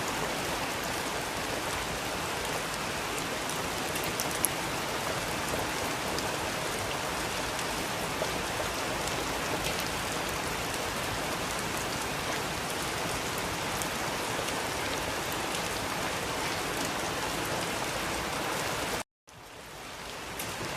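Steady rain falling and pattering on a surface, with scattered individual drop ticks. Near the end the sound cuts out for an instant and then fades back in.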